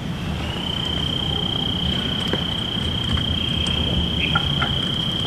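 A cricket trilling in one steady, high, unbroken tone that settles in about half a second in, over a low steady rumble.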